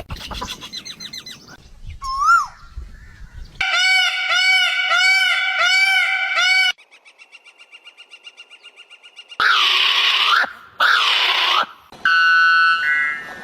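A succession of different bird calls. A single swooping note comes first, then five evenly spaced arched calls, then faint rapid pulsing. Two loud, harsh squawks follow, and stepped whistled notes close the sequence.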